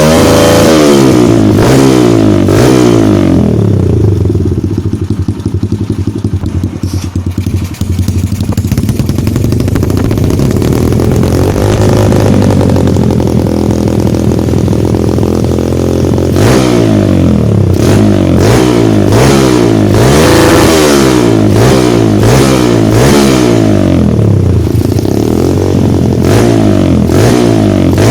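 Kawasaki KLX 150's single-cylinder four-stroke engine running through an aftermarket racing exhaust, revved in repeated blips. It falls to a lower, steadier run for several seconds after the start and rises slowly again. From about halfway it goes back to quick revs rising and falling over and over.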